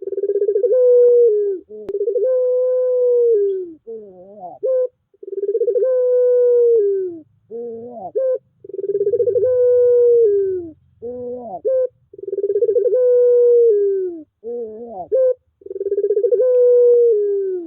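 Puter pelung dove cooing over and over. Each coo opens with short wavering notes, then stretches into a long, drawn-out, slightly falling coo, repeating about every three and a half seconds.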